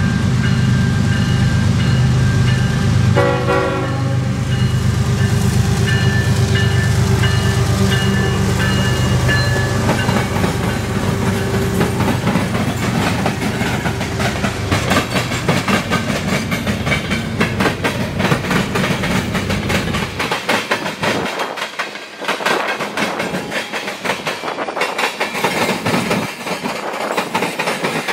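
Diesel freight train passing: locomotive engines rumbling, with a grade-crossing bell ringing and a short horn note about three seconds in. After about twenty seconds the engine rumble drops away and the rapid clatter of freight car wheels over rail joints takes over.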